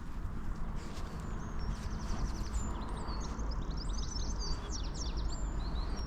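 Woodland birds singing, several songs overlapping: a rapid trill about two seconds in and a run of quick slurred notes around four to five seconds, over a steady low rumble.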